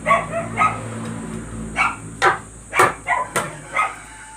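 A dog barking: a run of short, sharp barks at irregular intervals.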